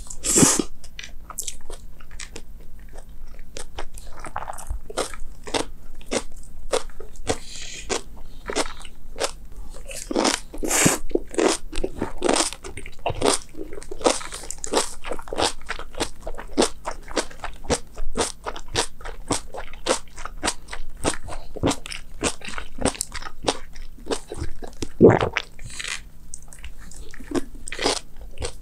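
A person chewing crisp food, with sharp irregular crunches two or three times a second, such as crunchy raw vegetables and fruit make. One loud crunch comes near the end.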